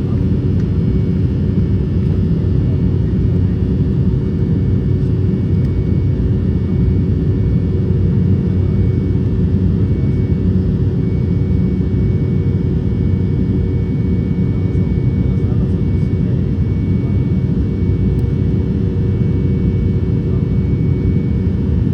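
Cabin noise inside an Embraer E195 airliner in flight: the steady rumble of its GE CF34-10E turbofan engines and rushing air, with a couple of faint steady whining tones above it.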